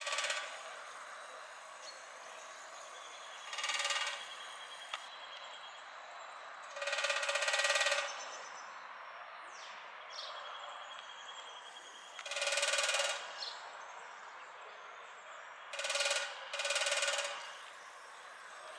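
A woodpecker drumming on sheet metal: about six rapid rolls a few seconds apart, each with a tinny, pitched ring, the longest lasting over a second.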